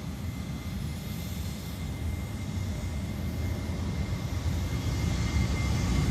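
Jet airliner's engines at takeoff power, a low rumble with a steady high whine, growing gradually louder.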